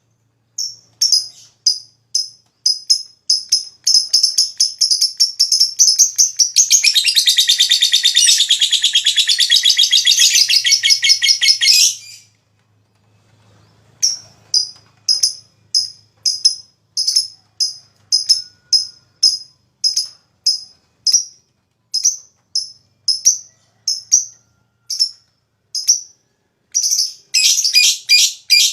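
Lovebird calling in short sharp high chirps at a steady pace that quicken into a long, rapid chattering run (the ngekek panjang that keepers prize), lasting about six seconds before it stops. After a short pause the spaced chirps resume, breaking into another rapid burst near the end.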